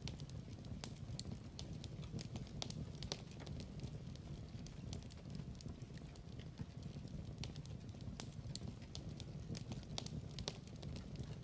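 Log fire crackling: frequent irregular pops and snaps over a steady low rumble of burning.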